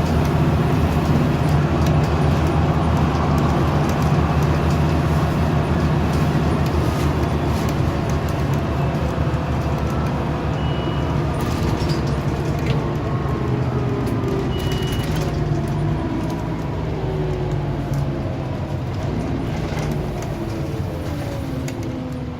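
Scania OmniCity single-deck bus heard from inside on the move: a steady diesel engine drone with road noise. In the last several seconds the engine pitch falls and the sound eases as the bus slows. Two short high beeps sound in the middle.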